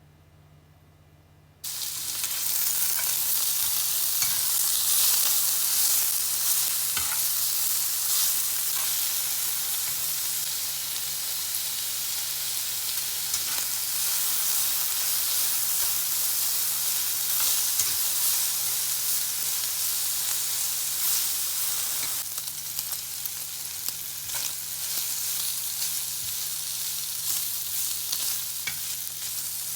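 Food sizzling as it fries in a hot pan, starting suddenly about two seconds in, with small scattered clicks of stirring; the sizzle eases a little later on. A faint steady low hum runs underneath.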